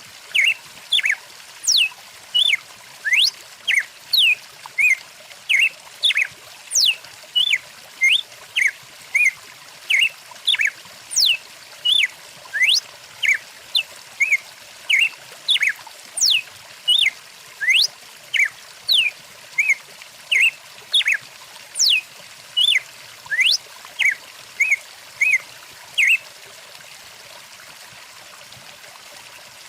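A bird calling in a long, regular series of short, loud whistled notes, about two a second, some sweeping up or down in pitch, over the steady rush of a stream. The calls stop near the end.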